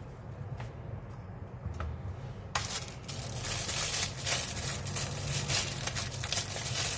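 Spoon stirring raw rice and water in the self-heating pot's inner bowl: a gritty, crunchy scraping with many quick irregular clicks, starting about two and a half seconds in.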